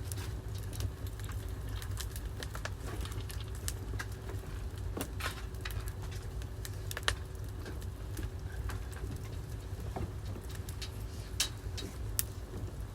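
Wood fire burning in a fireplace, crackling with scattered sharp pops over a steady low rumble; a few louder pops stand out about 7 and 11 to 12 seconds in.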